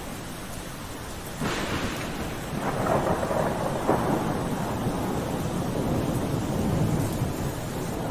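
Steady rain falling, with a roll of thunder that breaks in suddenly about a second and a half in and rumbles on unevenly for several seconds.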